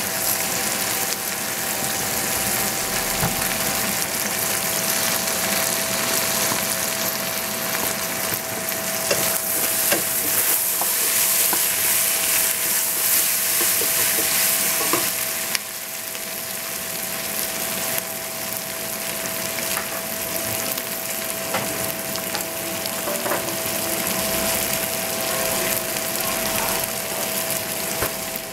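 Chopped vegetables sizzling in a stainless steel pot while being stirred with a wooden spatula, with scattered knocks of the spatula against the pot and a steady hum underneath. The sizzle is loudest in the middle and drops suddenly about halfway through.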